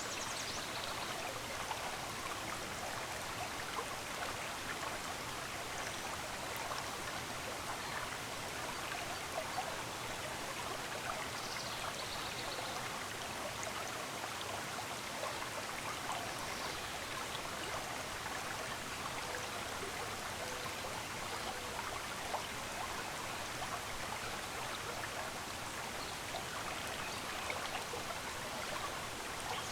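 A stream running steadily, its water trickling and splashing. A few faint, brief bird chirps come through, near the start and about a third of the way in.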